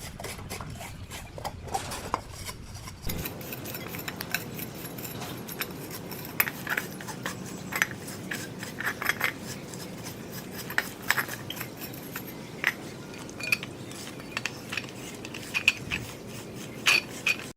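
Small metal parts and tools clinking and tapping against each other while being handled, in irregular light clicks throughout.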